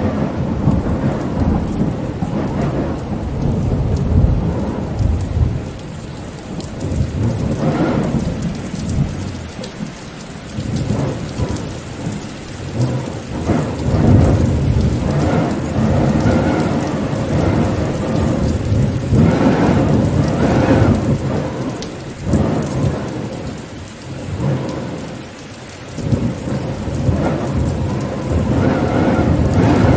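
Heavy rainstorm: steady rain with deep rumbles that swell and fade every few seconds.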